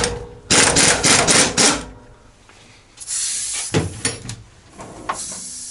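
Workshop handling noises: a sharp click, then about a second and a half of rustling and clattering. From about three seconds in there is a steady hiss, with a couple of knocks near the end.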